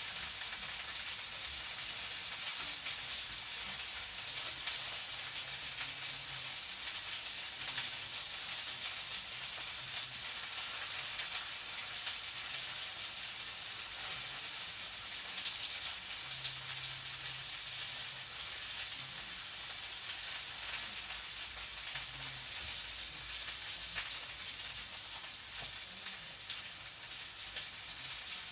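Food frying in a pan: a steady sizzle with fine crackles throughout. A faint low hum comes and goes beneath it.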